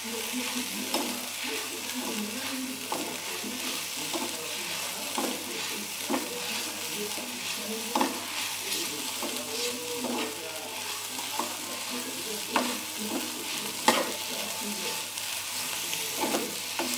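Fried noodles with egg and sweet soy and oyster sauce sizzling in a frying pan with a steady hiss, while a spatula stirs them. Irregular scrapes and clicks of the spatula on the pan come about every second, a few of them louder near the end.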